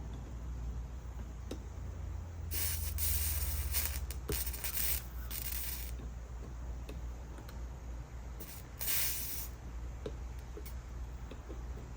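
Soldering iron sizzling on flux and solder: a broken stretch of hissing a few seconds long, then a shorter hiss near the end, with small ticks between, over a steady low hum.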